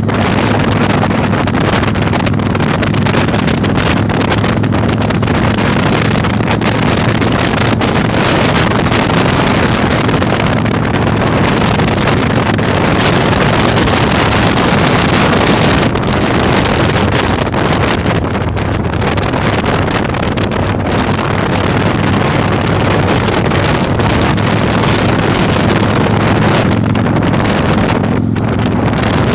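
Heavy wind noise buffeting the microphone over a Yamaha Virago 1100's V-twin engine, which runs at a steady speed throughout.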